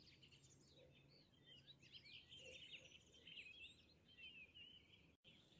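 Faint birdsong: many overlapping chirps and warbles, cutting out for a moment about five seconds in.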